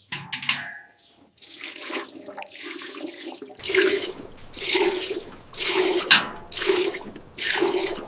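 Milk squirting into a pail as a cow is milked by hand: a few uneven splashes at first, then about halfway through a steady rhythm of squirts, a little more than one a second.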